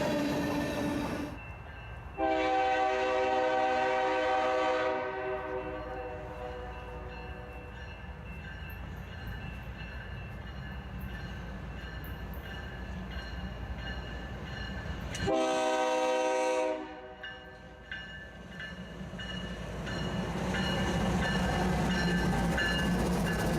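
Freight locomotive air horn sounding over the rumble of a passing train: a blast that cuts off about a second in, a long blast, then a short one about ten seconds later. The train noise builds again near the end.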